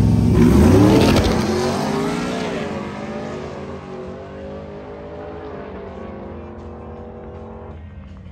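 A drag-race vehicle's engine at full throttle, rising in pitch over the first second or so, then fading steadily as it pulls away down the strip.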